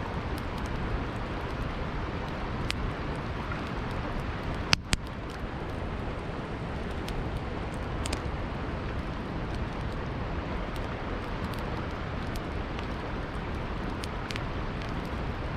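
Campfire crackling with scattered sharp pops, one louder pop nearly five seconds in, over the steady rush of a flowing river.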